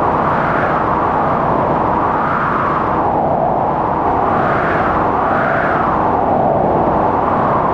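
Strong blizzard wind howling: a loud, steady rush of noise with a whistling band that rises and falls in pitch about once a second.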